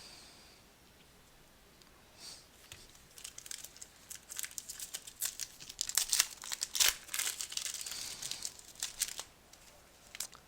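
A Prizm football card pack's wrapper crinkling and being torn open: a run of sharp crackles and rustles that starts about two seconds in and stops about a second before the end.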